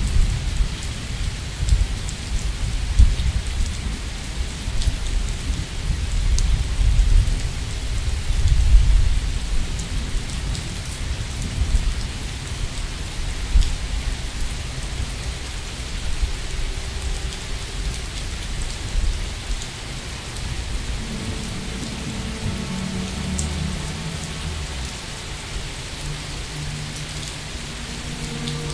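Steady rain falling, with rolling thunder rumbling in repeated swells through the first two-thirds and dying down toward the end. In the last several seconds a few low steady tones join the rain.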